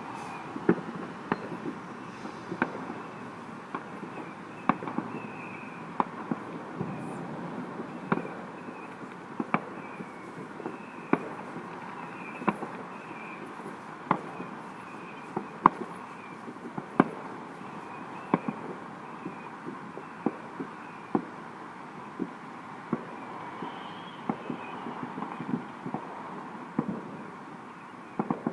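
Fireworks going off: irregular sharp bangs, roughly one a second, over a steady background hiss.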